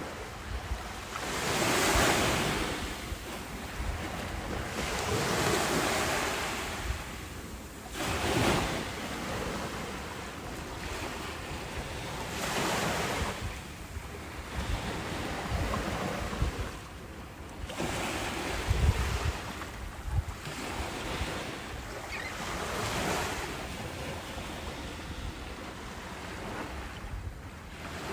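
Ocean waves breaking and washing in, one surge swelling and fading every few seconds over a steady hiss of surf.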